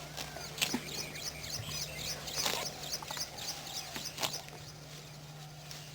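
Small birds chirping over and over in short, rapid high calls, with a low steady hum underneath.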